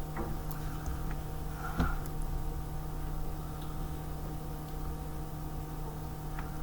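A steady hum with a low rumble beneath it, broken by a few light clicks: one just after the start, a sharper knock at about two seconds, and another near the end.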